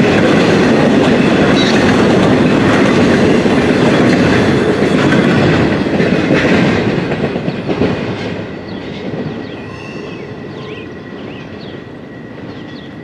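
Freight train cars rolling past on the rails, loud at first. Around seven seconds in the noise falls away as the end of the train goes by, leaving quieter rolling noise and a few faint bird chirps.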